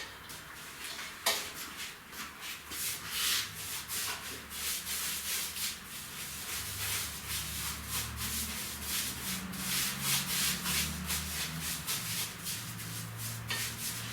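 A wide paintbrush loaded with varnish scrubbed over rough brick and stone in quick repeated back-and-forth strokes, with a single sharp knock about a second in.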